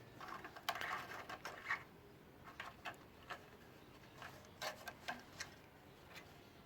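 A cat's paws and claws pattering and clicking on a hard floor as it runs in a burst of zoomies: an irregular scatter of quick ticks, thickest about a second in and again around five seconds in.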